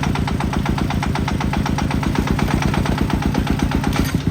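Tractor engine running steadily, a fast, even chugging of separate firing beats.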